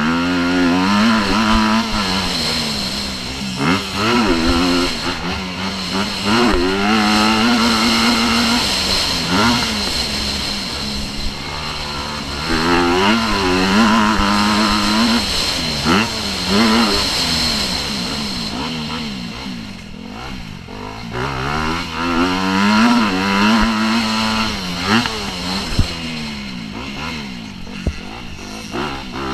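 Motocross bike engine revving hard and backing off over and over, its pitch rising and falling every few seconds as the rider works the throttle and gears, with a few sharp knocks.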